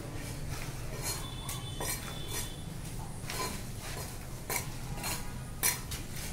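Irregular metallic clinks and scrapes of hand tools at work, some strikes ringing briefly, over a steady low hum.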